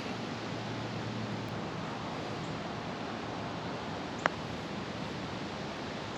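Steady wind noise on the microphone, with a single sharp click about four seconds in: a putter striking a golf ball.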